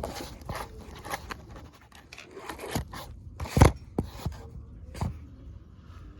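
Irregular clicks, knocks and short scrapes of metal parts and tools being handled while fitting a water heater pilot assembly, with one louder knock about halfway through.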